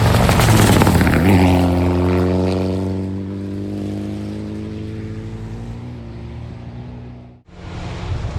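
Rally car going by flat-out on a gravel stage: a loud rush of engine and gravel spray in the first second or so, then the engine note falling slowly in pitch as the car pulls away. The sound cuts off abruptly about seven seconds in and another engine sound follows.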